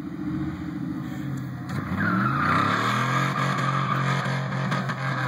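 Truck engine revving up about two seconds in, then held steady at high revs, with a high-pitched whine over it.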